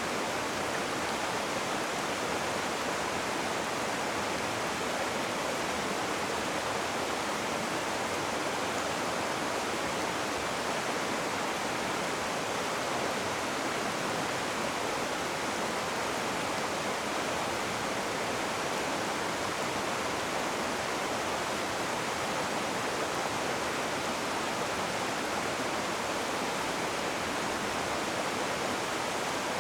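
Rushing water: a river or waterfall running in an even, unbroken rush.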